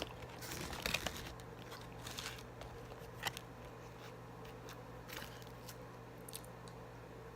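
Close-up eating sounds of fried chicken and a biscuit: scattered soft crunches, bites and mouth clicks, busiest in the first second, over a steady low hum.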